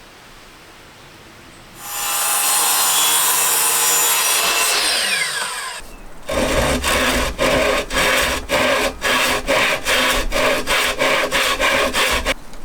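Sawing wood: a power saw runs for about four seconds, then winds down with a falling whine. It is followed by about a dozen back-and-forth hand-saw strokes through wood, roughly two a second, that stop just before the end.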